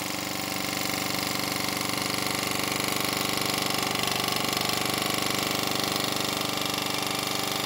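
Small homemade wobbler (oscillating-cylinder) steam engine running steadily under steam, with a fast, even exhaust beat.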